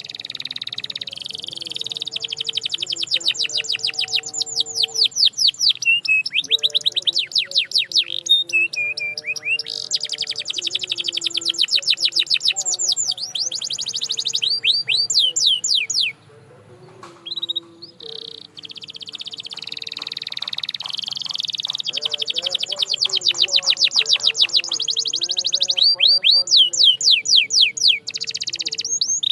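Canary singing a long song of fast trills, runs of rapid repeated notes, some sweeping down in pitch, with a brief pause about two-thirds of the way through.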